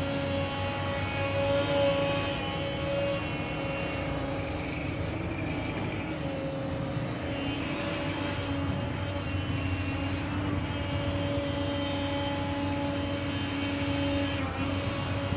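Heavy diesel engine running steadily, a constant hum with a steady whine above it.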